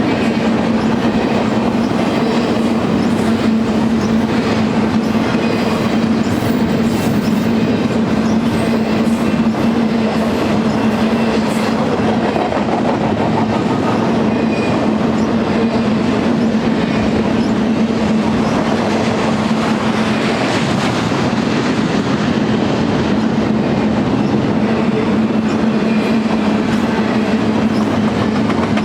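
Freight train cars rolling steadily past on steel rails: a continuous, even wheel-on-rail noise with a steady low hum underneath, at the same loudness throughout.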